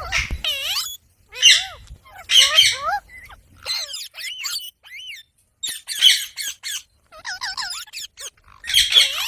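Parrots squawking: a run of about seven harsh, warbling calls, each lasting a second or less, with short gaps between them.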